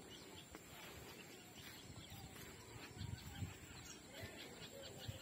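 Faint outdoor ambience with scattered short bird chirps, and a brief low rumble about three seconds in.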